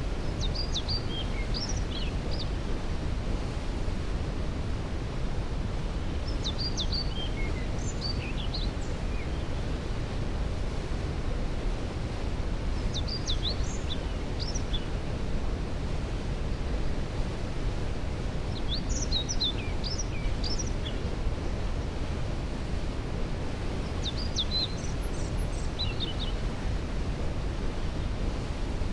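A waterfall rushing steadily, a dense low-heavy roar of falling water. Over it a songbird sings short high phrases, repeated about every six seconds.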